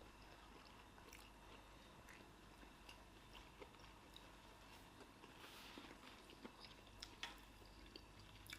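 Near silence with faint chewing and mouth sounds: soft scattered clicks, a couple of them slightly sharper near the end.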